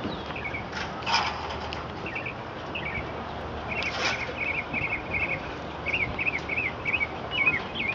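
A bird singing: short high chirps, a quick run of them about four seconds in, then several separate sliding notes near the end, over a steady background hiss.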